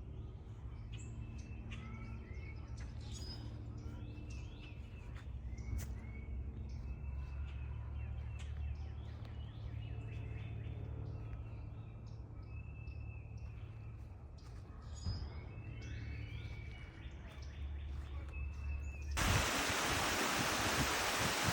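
Small birds chirping and singing, many short calls over a low steady rumble. About two seconds before the end it cuts abruptly to loud, even rushing water, like a waterfall.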